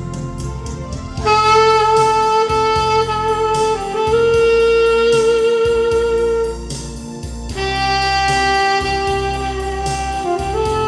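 Alto saxophone playing a slow melody in long held notes, with a short breath gap about two-thirds of the way through. Beneath it runs a backing track with bass and a steady beat.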